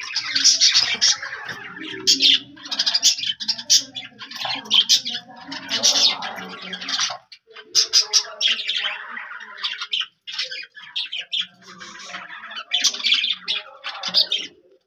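Birds chirping and squawking in rapid, high-pitched clusters of calls, with short pauses, over a fainter low sound in the first half.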